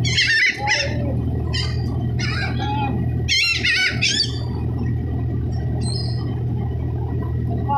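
Seagulls squawking in several bursts of wavering, high-pitched calls, over a steady low machinery hum.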